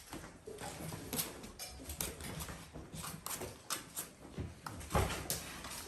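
Dalmatian puppies scampering and scuffling at play: a run of small, irregular clicks and knocks, with a louder knock about five seconds in.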